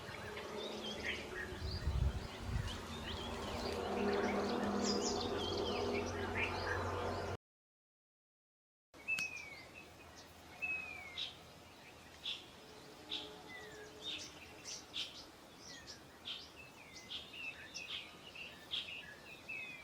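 Wild birds chirping and calling, with a low steady hum beneath them at first. The sound cuts out for a moment about seven seconds in, then resumes with repeated short, falling whistled notes and chirps.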